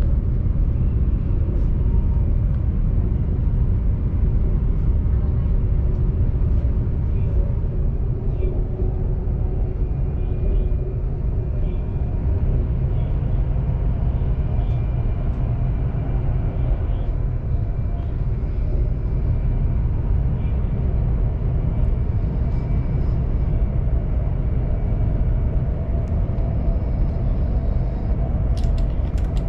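Steady low rumble and rush of a high-speed train travelling at speed, heard from inside the passenger car. A few light clicks come near the end.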